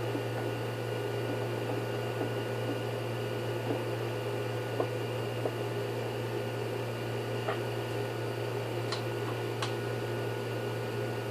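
A steady, even machine hum with a few faint clicks and taps about halfway through and near the end.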